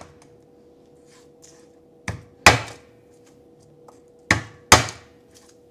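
Kitchen knife striking a cutting board four times in two quick pairs as garlic is chopped, over a faint steady hum.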